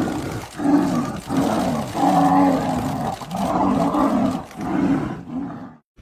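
A large animal growling and roaring in a run of about six low calls, each under a second, with the pitch sliding; the sound cuts off abruptly just before the end.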